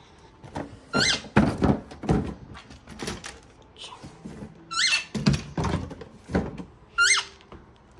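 A wire birdcage door being opened, with several sharp clunks and rattles. A pet parrot gives three short rising squawks between them.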